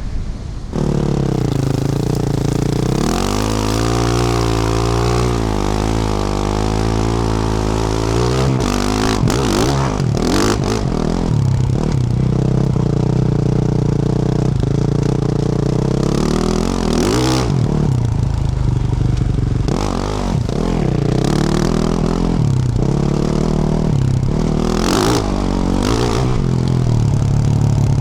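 Yamaha YZ450F single-cylinder four-stroke dirt bike engine with a Yoshimura RS-12 exhaust, being ridden under load, its revs rising and falling again and again with throttle and gear changes. Sharp knocks and clatter come in a few times around the middle and again near the end.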